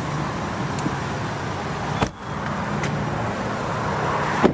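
A car driving, with steady road and engine noise, broken off briefly about two seconds in.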